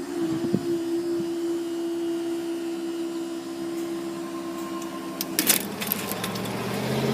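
Level crossing barrier motor running with a steady hum for about five seconds as the barriers rise after a train, then stopping with a few clicks. A road vehicle's engine starts pulling away near the end.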